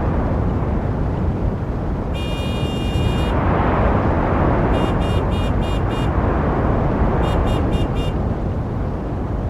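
Steady road-traffic noise from passing cars, with a car horn: one long honk about two seconds in, then two quick series of short toots, five and then four.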